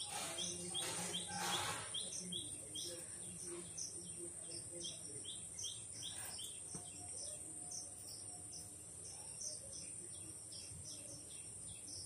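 A bird outside chirping steadily, short high notes about three a second. In the first two seconds there are two short noisy blasts of a person blowing her nose.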